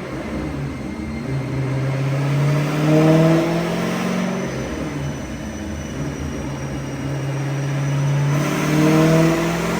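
Twin-turbo Corvette Z06's 7.0-litre V8 revving up under load on a chassis dyno in a high-boost pull. The pitch climbs to a peak about three seconds in, drops briefly, then climbs again to a second peak near the end, with a thin high whine rising with it.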